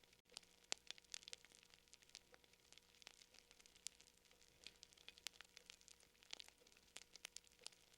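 Fire crackling softly: quick, irregular pops and snaps, several a second, over a faint hiss with a low steady hum beneath.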